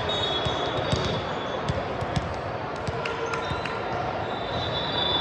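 Volleyball gym din: a steady hum of many voices, with scattered sharp knocks of volleyballs being struck or hitting the floor and brief sneaker squeaks.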